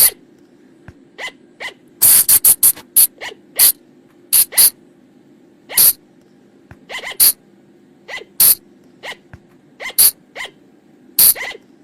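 Sunda flying lemur (colugo) calls: short, sharp, high-pitched squeaks repeated at irregular intervals, some in quick runs of several, over a faint steady low hum.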